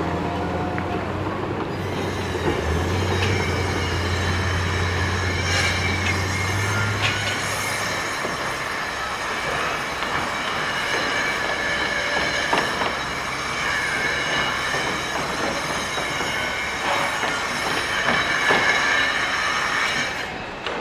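High-pitched metallic squealing, several shrill tones at once, over a low steady engine hum that stops about eight seconds in.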